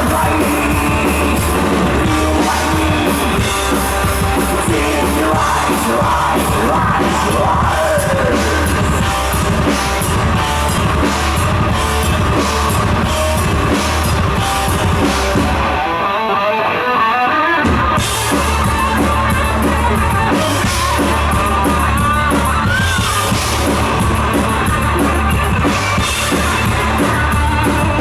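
Thrash metal band playing live: distorted guitars, bass and pounding drum kit, with vocals. About 16 seconds in, the drums and bass drop out for under two seconds, leaving a guitar alone, then the full band crashes back in.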